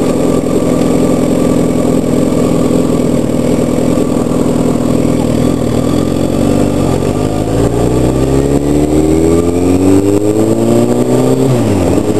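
Sportbike engine running steadily, then revving up in a long rising pull for about five seconds as the bike accelerates, with a sharp drop in pitch near the end.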